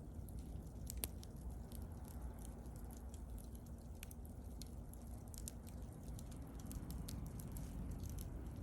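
Wood bonfire crackling: scattered sharp snaps and pops over the low, steady rumble of the flames, with one louder pop about a second in.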